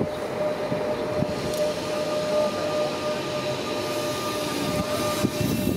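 Renfe series 447 electric commuter train pulling in along a station platform, with rolling rumble and a steady high-pitched whine that cuts off about five seconds in.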